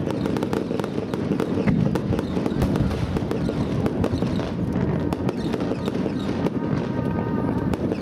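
Aerial fireworks going off in quick succession: many sharp cracks and crackles over continuous low booming.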